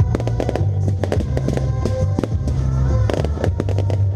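Aerial fireworks bursting in rapid succession, many sharp reports and crackles a second, over the music of a pyromusical display.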